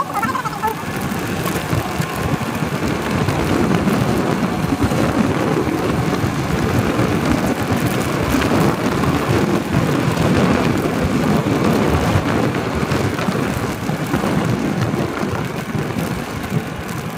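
Wind rushing over the microphone on a moving motorcycle, with engine and road noise underneath. The rush grows louder after a few seconds and eases near the end.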